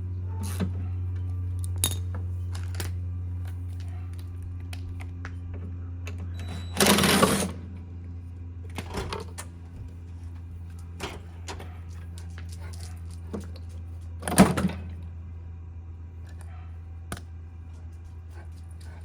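Scattered clicks and knocks of a Honda lawn mower's rear wheel and its drive gear being handled and fitted by hand, with two louder scraping rattles, one about seven seconds in and one about fourteen seconds in. A steady low hum runs underneath.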